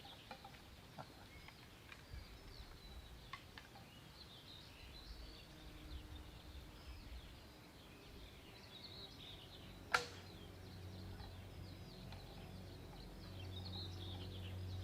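Small birds chirping faintly, with a single sharp crack of an arrow shot from a wooden bow about ten seconds in. Steady music comes in near the end.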